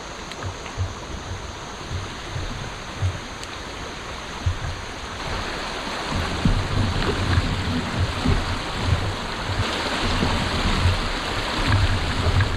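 Water rushing along a moving kayak, with wind buffeting the microphone in low thumps that grow stronger about halfway through.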